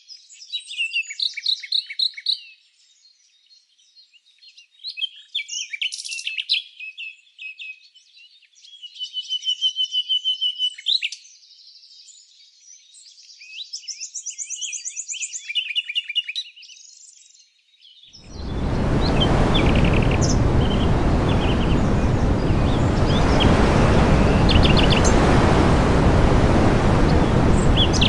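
Small songbirds chirping and singing, with varied calls, trills and quick runs of repeated notes. About two-thirds of the way through it cuts to a loud, steady rushing noise with faint bird chirps over it.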